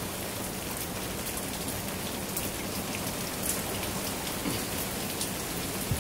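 Heavy hurricane rain falling steadily, with scattered close drops ticking sharply.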